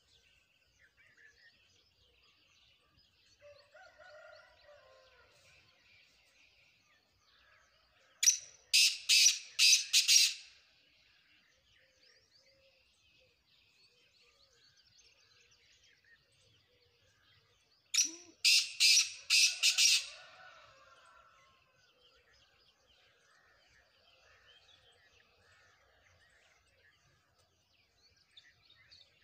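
Black francolin calling twice, about ten seconds apart. Each call is a loud, harsh run of about five notes lasting about two seconds.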